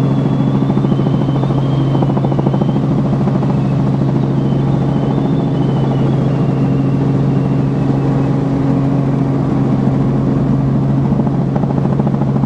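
Helicopter cabin noise in flight: a steady low drone from the rotor and engine with a fainter high whine above it.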